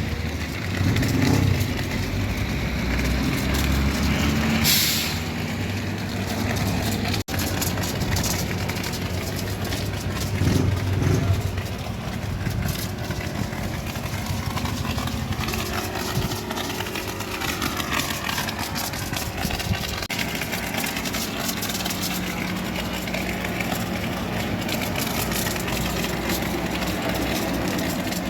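Old Mercedes-Benz truck's diesel engine running steadily, with a short hiss of air about five seconds in.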